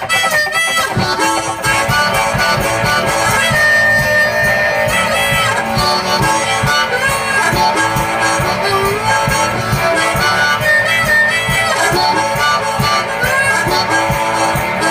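Live one-man-band instrumental break: harmonica playing a solo over strummed guitar and a steady low drum beat.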